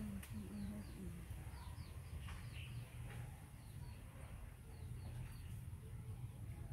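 Faint bird chirps: many short, high, falling notes scattered through, over a steady low hum, with a few soft low hums in the first second.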